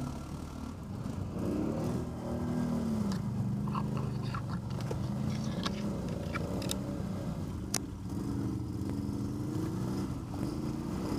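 ATV engine running under load, its pitch rising and falling as the throttle is worked, with scattered sharp clicks and knocks from the machine over rough ground.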